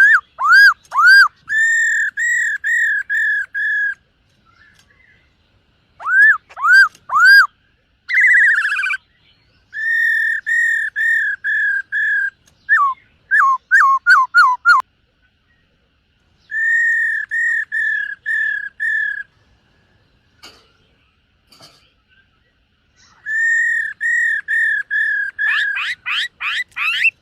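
Black-throated laughingthrush singing: loud, clear whistled notes delivered in runs of about five to seven, some hooked upward, one run falling quickly in pitch, broken by pauses of a second or more. Near the end comes a fast series of rising sweeps.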